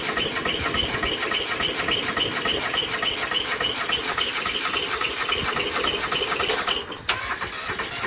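Bolens G174's two-cylinder diesel engine running with a fast, even beat, with a brief drop in level about seven seconds in. The engine is worn out, with low compression in both cylinders, and is hard to start.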